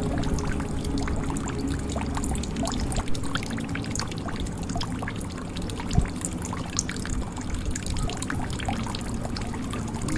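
Water dripping and trickling into a jug: many small quick drops over a steady pouring sound, with a louder drop about three seconds in and another about six seconds in.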